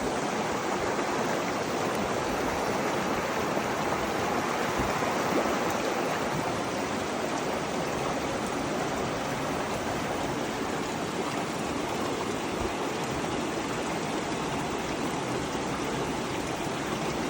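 Steady rushing of flowing creek water, an even noise with no change.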